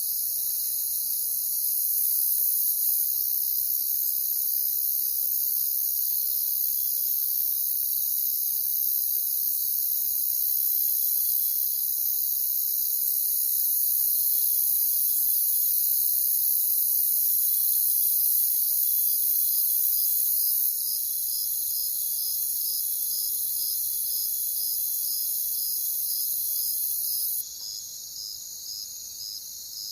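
Crickets chirping in a dense, steady high-pitched chorus. Near the end the chorus suddenly drops in loudness, and one cricket's chirp stands out, repeating about twice a second.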